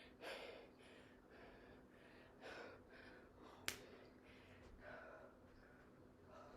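Faint heavy breathing, a soft puff of breath every second or so, from exertion during explosive plyometric push-ups. One sharp click about three and a half seconds in.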